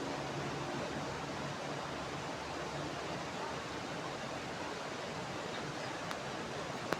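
Steady rushing of running water, like a mountain stream, with a faint low hum fading out in the first seconds and a sharp click near the end.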